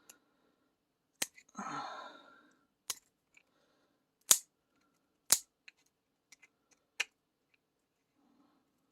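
Sharp clicks and snaps from handling resin shaker keychains while peeling latex off them: about five loud, scattered clicks with fainter ticks between. A short breathy sound about two seconds in.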